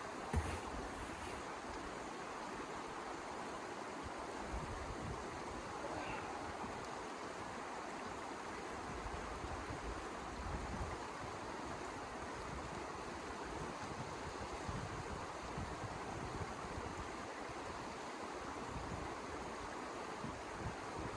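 Steady rushing wind of a blizzard, with irregular low gusts buffeting the microphone.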